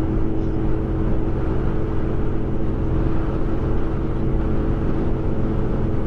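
Kawasaki W800's air-cooled parallel-twin engine running steadily at cruising speed, with a low rumble of road and wind noise while riding.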